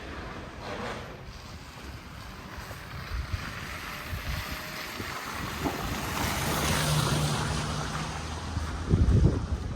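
A vehicle passing on a snow-covered street, its tyres hissing through wet snow with a low engine hum, swelling to its loudest about seven seconds in and then fading. Wind buffets the microphone near the end.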